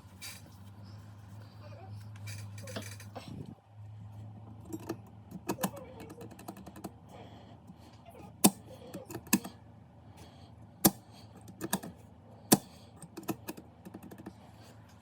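Keys clicking on a computer keyboard, single presses spaced irregularly, over a steady low hum that drops out briefly a few seconds in.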